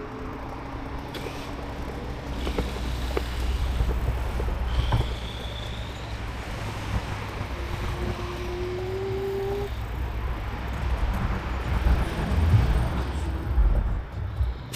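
Riding along on an e-bike: a steady low rumble of wind on the microphone and road noise, with car traffic. A brief whine that rises slightly in pitch comes about eight seconds in.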